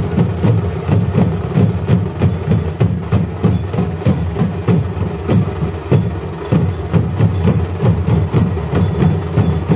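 Drums playing a fast, steady beat of sharp, closely spaced strokes.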